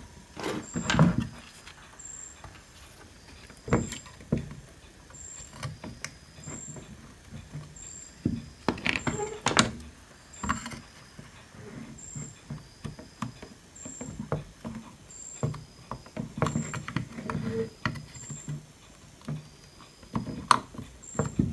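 Small hand tools clicking, tapping and scraping on a circuit board while a corroded capacitor is being worked loose and desoldered.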